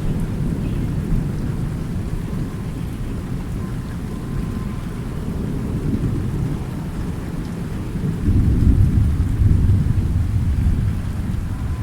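Thunderstorm: continuous low rumbling of thunder over steady rain, with a louder roll of thunder swelling up about eight seconds in and slowly dying away.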